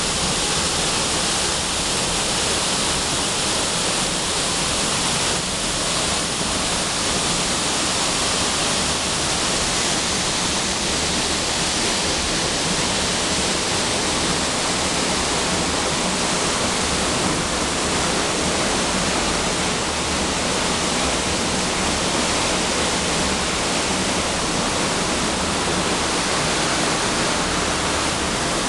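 Waterfall: water falling and splashing in a steady, even rush with no let-up.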